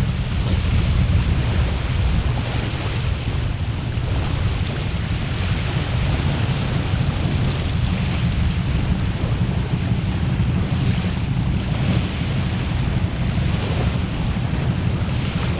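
Wood fire burning in a Coleman Fire Disk fire pit, a steady low rumble with wind buffeting the microphone, a few faint crackles and a thin high whine held over it.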